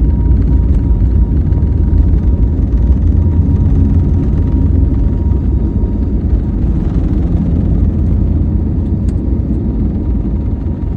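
Airliner engines at takeoff power heard from inside the passenger cabin: a loud, steady deep rumble with a faint steady whine above it, easing slightly near the end.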